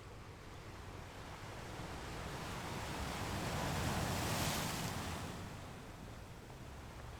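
Ocean surf breaking on a shore: one wave's wash swells up, is loudest about four seconds in, then recedes into a steady low hiss of water.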